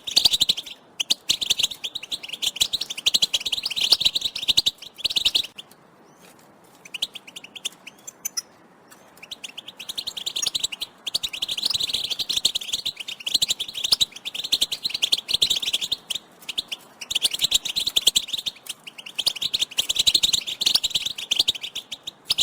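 European goldfinches, several at once, giving rapid chattering call notes in bouts of a few seconds, with a thinner, quieter stretch about a quarter of the way in. These are the contact calls of female goldfinches, used to excite a male into song.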